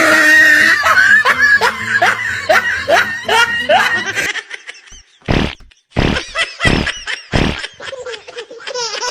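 Laughter with quick falling 'ha-ha' pulses, then four short, loud fart noises in quick succession about five to seven and a half seconds in, and laughter starting again near the end.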